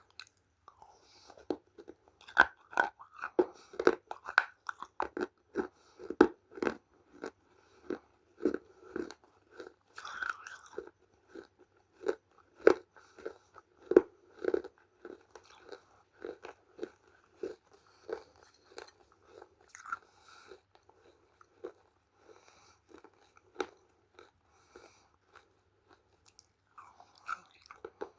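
A person biting and chewing crunchy chunks of dry clay: a run of sharp, irregular crunches, often two or three a second, with brief pauses between bites.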